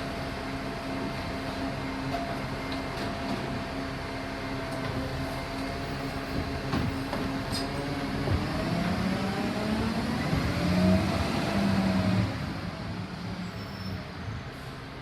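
Garbage truck's diesel engine running steadily, then revving up about halfway through. The pitch rises to its loudest near the end, then falls away.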